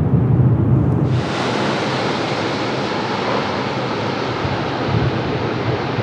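Airbus A330-200's jet engines at go-around thrust: a steady broad roar, with a brighter hiss that comes in suddenly about a second in.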